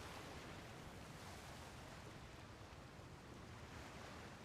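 Near silence: a faint, steady hiss of background ambience.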